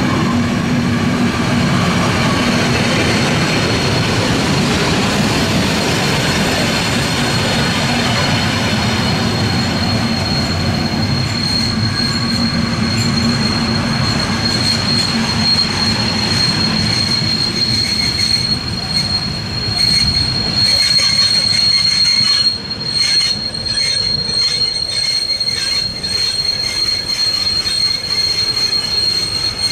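Train running on the rails with a steady high-pitched wheel squeal that grows louder through the second half, while the rumble of the wheels fades after about twenty seconds.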